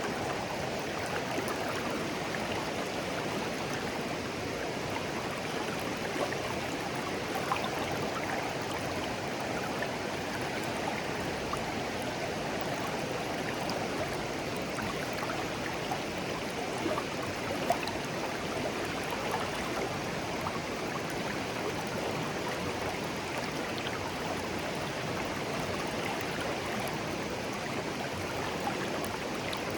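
Shallow, clear stream babbling gently, a steady rush of flowing water with many small splashes and gurgles scattered through it, a few a little louder about seventeen seconds in.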